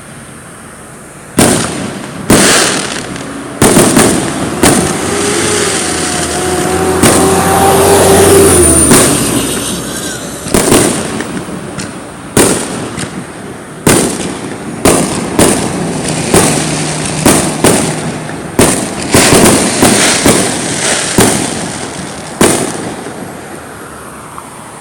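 Aerial fireworks going off in a rapid series of loud bangs, with a long stretch of continuous crackling in the middle and a dense run of bangs near the end before it dies away.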